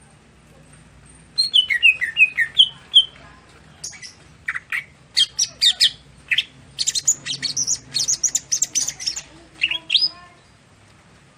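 A cucak hijau (green leafbird) singing. About a second in, a burst of quick falling chirps starts, then a fast run of sharp high notes that stops shortly before the end.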